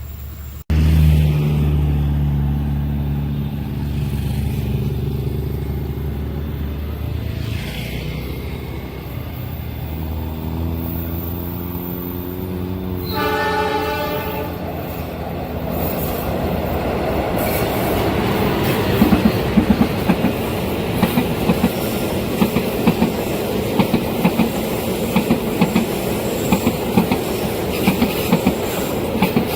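A train passing: a locomotive's engine drone as it approaches, a single horn blast of about a second and a half roughly halfway through, then a steady clatter of wheel clicks over the rail joints as the wagons roll by.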